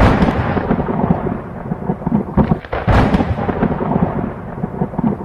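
Loud thunder-like rumble with a sharp boom at the start and another about three seconds in, as an intro sound effect before the music.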